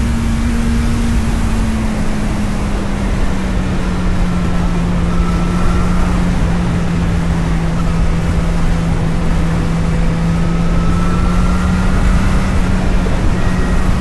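Engine of a vehicle being driven, heard on board over road and wind noise; its steady note drops in pitch about two seconds in and then holds as it cruises.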